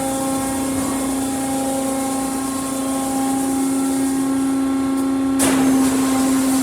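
Autec Evolution in-bay automatic car wash machinery running with a steady pitched hum from its motors and pumps during the triple-foam stage. About five seconds in, a rushing hiss sets in suddenly over the hum.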